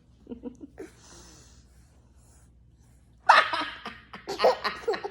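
Playful vocal noises from a mother and her toddler: small mouth sounds and a breathy hiss, then about three seconds in a sudden loud burst of voice that runs on in pitch-swooping squeals and giggles.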